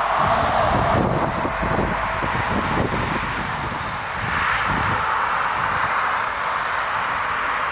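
Airbus A380 jet engines during takeoff: a loud, steady roar that swells again about halfway through, with wind buffeting the microphone underneath.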